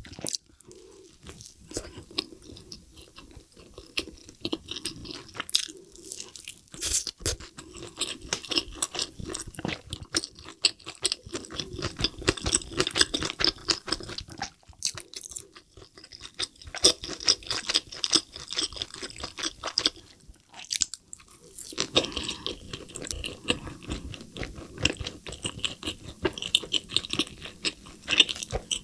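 Close-miked chewing and biting of a McDonald's double cheeseburger dipped in cheese sauce: a dense run of small wet crackles and clicks, with brief pauses about 15 and 21 seconds in.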